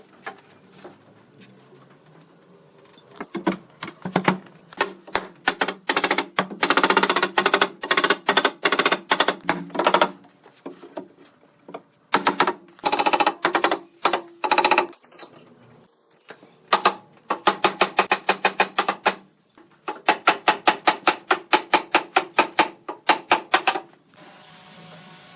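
Rapid, evenly spaced strikes of a tool on wood, about four a second, in runs of a few seconds with short pauses between them.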